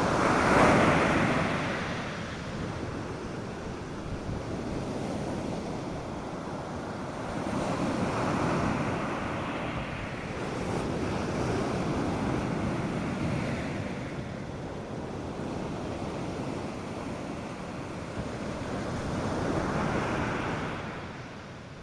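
North Sea surf breaking on a sandy beach, a steady wash of noise that swells with each wave and ebbs between. The loudest break comes right at the start, and softer ones follow every four to seven seconds.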